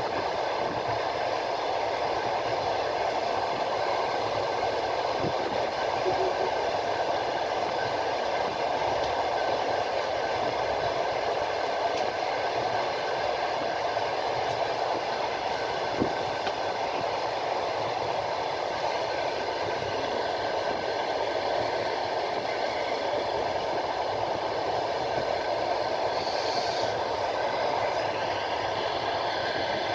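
Train running steadily along the track, heard from on board: an even rumble of wheels on rails with a couple of single clicks of the wheels.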